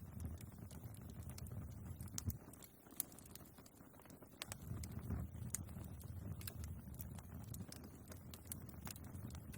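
Wood fire burning in a fireplace: a low rumble of the flames with irregular crackles and sharp pops from the logs, the loudest pops about two and three seconds in.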